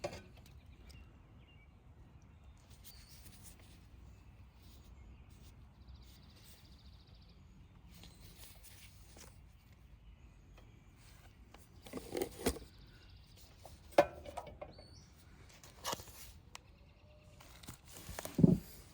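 Low background noise, then from about two-thirds of the way in a few short, sharp clicks and knocks, like tools and parts being handled.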